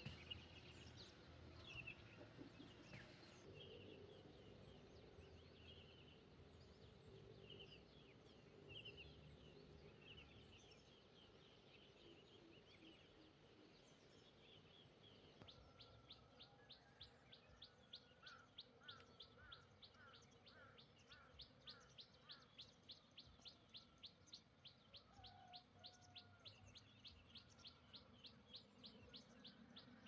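Faint chirps of small wild birds, scattered at first. About halfway through, a fast, even run of high chirps sets in, about four a second, with a short series of lower repeated notes over it for a few seconds.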